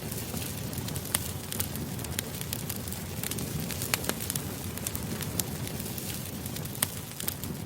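Campfire burning with a steady low rumble and frequent sharp, irregular crackles and pops from the wood.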